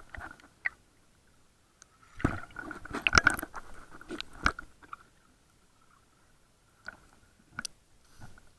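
Irregular clicks and crackles, heard underwater, with a cluster of louder ones from about two to four and a half seconds in, over a faint steady high whine.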